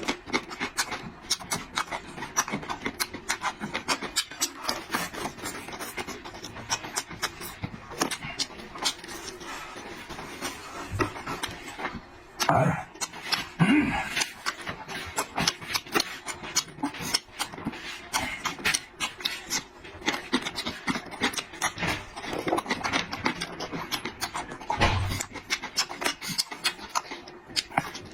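A person chewing and eating food noisily, close to the microphone: a steady run of quick wet smacks and clicks, with a few louder bursts about halfway through.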